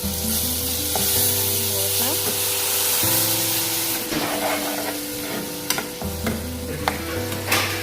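Onion-tomato masala sizzling in a hot oiled pan while being stirred, with a few sharp clicks of the spoon against the pan in the second half. Soft background music with slow-changing bass notes runs underneath.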